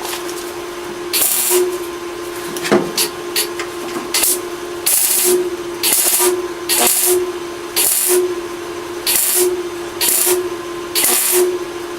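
MIG welder tacking a 16-gauge steel patch panel to a door post: about a dozen short hissing bursts, each under half a second and spaced roughly a second apart, over a steady hum.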